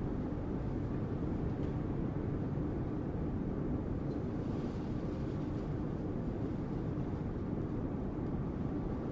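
Strong wind blowing steadily, a deep, even rumbling noise with no distinct gusts.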